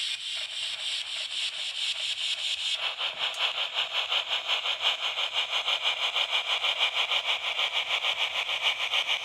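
Model train running on its track: a steady rolling whirr with a rapid even pulse, getting louder and fuller about three seconds in.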